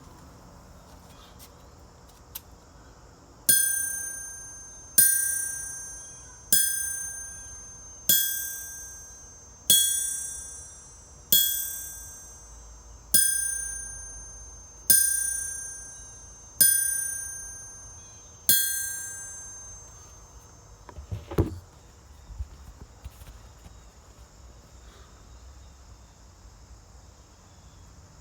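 A 100 lb blacksmith's anvil struck ten times with a hammer, about one and a half seconds apart. Each blow rings out in several high tones that fade before the next. A few seconds after the last ring there is a single dull thud.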